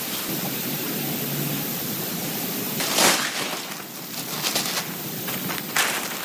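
Heavy rain falling on a tent, a steady hiss with a brief louder surge about three seconds in and a few sharp drop hits in the second half.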